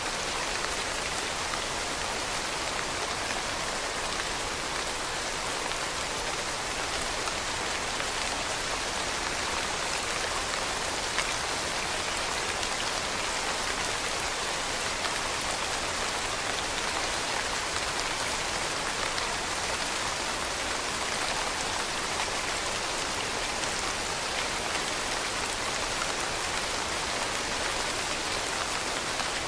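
Steady rain falling on leaves: a dense, even patter of drops.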